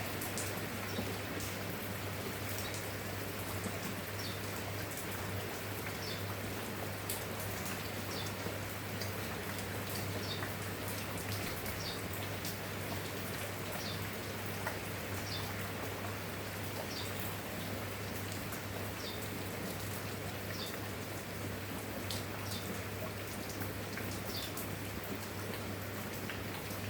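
Steady rain, with many individual drops ticking and pattering, over a low steady hum. Short faint high chirps recur every second or two.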